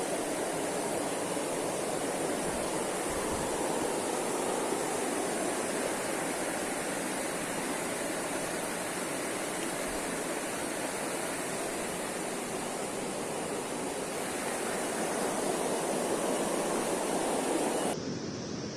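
Steady rushing of water. Near the end it changes abruptly, becoming quieter and duller.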